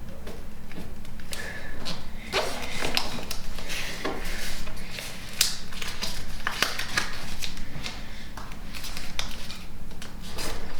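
Sheet of origami paper being folded and creased by hand: irregular crisp crackles and rustles as the flaps are pressed flat against the table.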